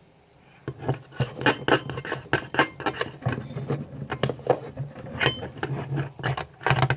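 A spoon clinking and scraping against a bowl in quick, uneven strokes as slime mixture is stirred, starting about a second in.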